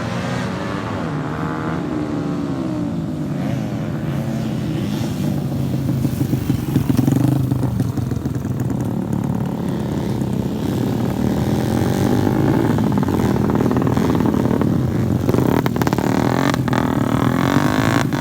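Racing motorcycle engines revving, their pitch rising and falling as the bikes accelerate and back off, with more than one engine heard at once and a few sharp clatters near the end.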